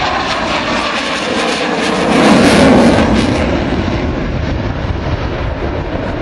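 Propeller aircraft of the GEICO Skytypers formation flying past, the engine noise swelling to its loudest a little over two seconds in and then fading.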